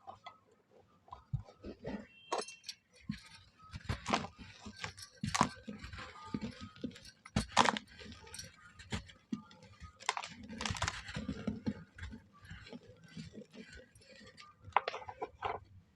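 Dry moulded shapes of mud, charcoal and red sand being crumbled, with irregular crunching and crackling. The louder breaks come about four seconds in, near the middle and about two-thirds through.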